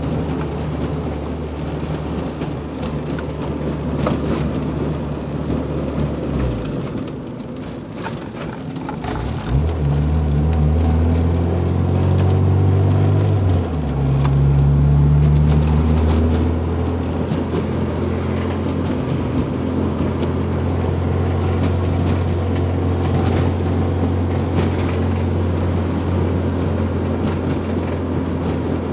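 1993 Honda Civic engine running with a knocking sound. The revs dip about six seconds in, are raised and held higher for several seconds, then settle back to a steady idle.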